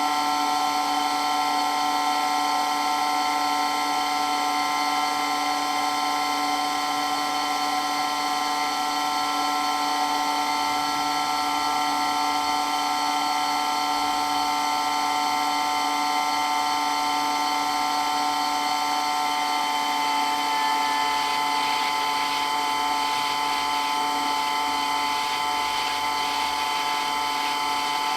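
Water pump for water blasting running continuously, a very loud, steady whine made of several tones.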